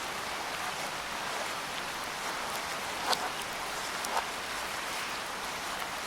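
Steady rain falling, a dense even hiss with scattered individual drop ticks; two sharper drops land about three and four seconds in.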